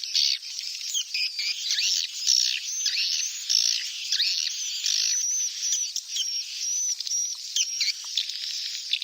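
Edible-nest swiftlet chicks calling in a dense, unbroken chorus of high, overlapping chirps and short twittering glides. This is a swiftlet lure-call recording of the kind played to attract swiftlets to roost.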